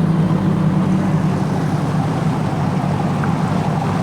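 Steady low drone of a yacht's engine running, an unchanging hum with no rise or fall.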